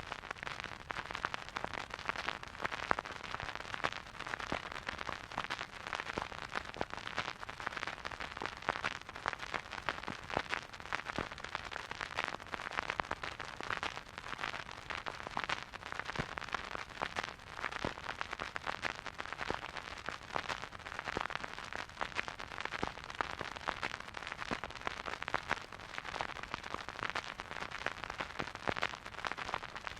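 Surface noise of a vinyl record playing a silent groove: a steady hiss with a dense, irregular spray of crackles and pops from dust and wear.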